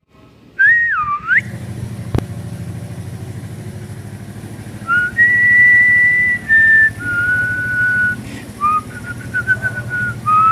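A person whistling a tune in held notes that step and glide between pitches, over a motorcycle engine idling with a steady low pulse. A single sharp click about two seconds in.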